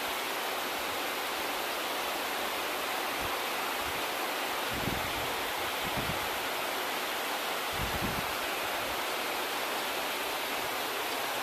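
Heavy rain falling steadily on trees and leaves: an even, continuous hiss. A few soft low thumps come through around the middle.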